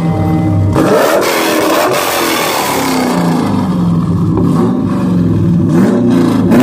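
Chevrolet Camaro engine revved while parked, heard from behind at its exhaust tips: several blips, the pitch climbing and dropping back each time.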